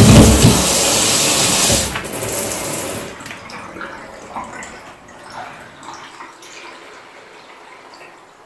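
Water running hard from a tap, shut off about two seconds in, followed by quiet small knocks and rubbing.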